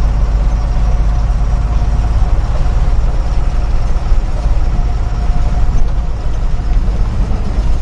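Truck engine running, heard from inside the cab: a steady, loud low drone.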